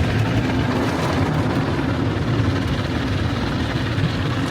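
Automatic tunnel car wash machinery working over the car, heard from inside the cabin: a steady low rumble with a hiss above it.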